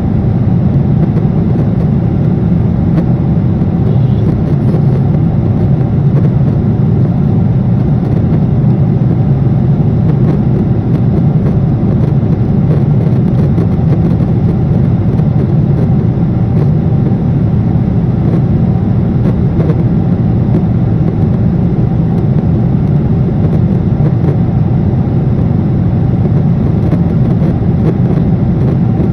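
Steady airliner cabin noise heard from inside the passenger cabin: a constant low rush of jet engines and airflow, even throughout.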